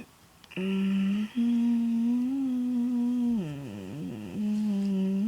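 A person humming long held notes with closed lips; the pitch drops and wavers for about a second midway, then returns to the steady note.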